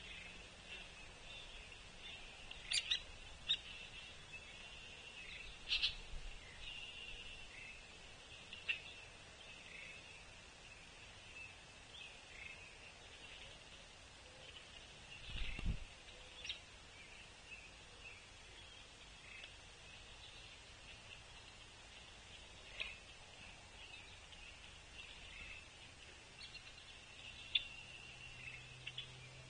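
Outdoor bird calls: a continuous high-pitched background of calling, with a few sharp, short, loud call notes scattered through. A single low thump comes about halfway through.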